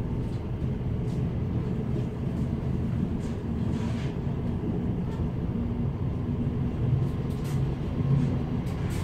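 Inside a Class 707 Desiro City electric multiple unit running at speed: a steady rumble of wheels on the track with a low, even hum underneath and a few faint clicks.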